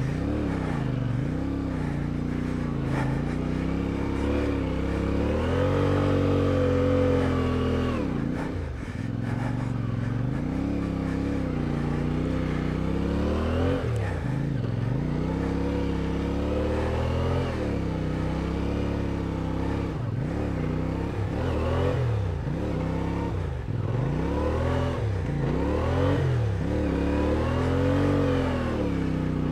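CFMOTO 450MT's parallel-twin engine revving up and down again and again under load in deep sand. The revs are held high for a couple of seconds at about six seconds in, drop sharply, then rise and fall in quick swings toward the end.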